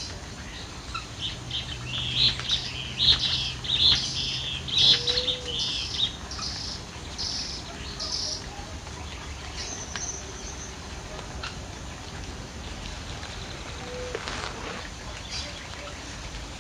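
Birds singing: a loud run of quick, repeated high chirping notes for the first half, then only scattered short calls.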